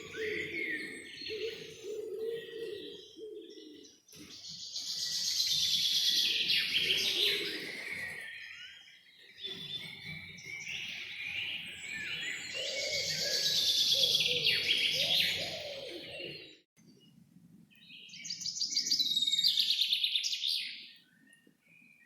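Forest songbirds singing in long, overlapping phrases of quick, high notes, rising in three loud bouts separated by brief lulls.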